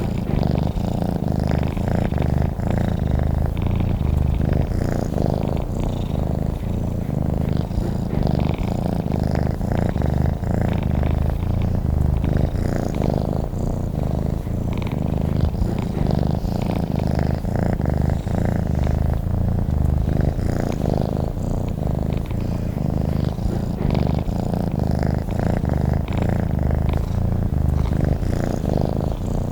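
Domestic cat purring steadily and close up, the low rapid rumble swelling and easing gently every couple of seconds with its breathing.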